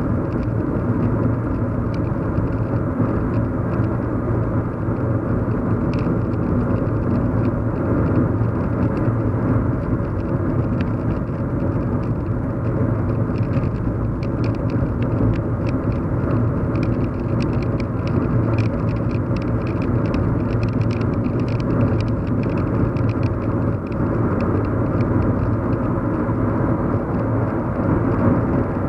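Steady low hum and rumble of a car driving, heard from inside the cabin, with faint light ticks now and then, most of them in the middle stretch.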